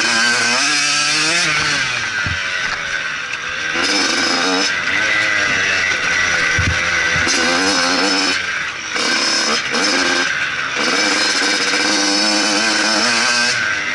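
Motocross bike engine revving hard, its pitch rising and falling again and again as the throttle opens and closes, with short drops off the throttle about two thirds of the way through.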